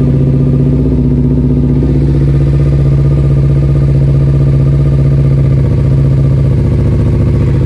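Kawasaki Ninja 250 FI's parallel-twin engine idling steadily, just started on fresh oil and a new oil filter.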